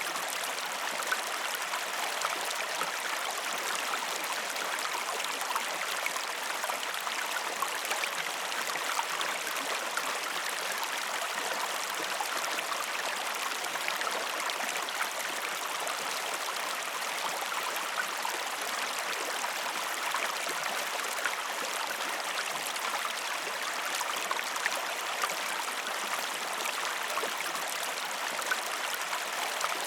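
Steady rush of flowing water, like a stream, with small drips and ticks scattered through it.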